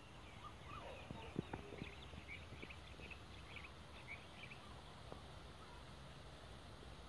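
Faint bird chatter: a quick run of short, high chirps through the first half, with a few sharp knocks about a second and a half in over a low, steady rumble.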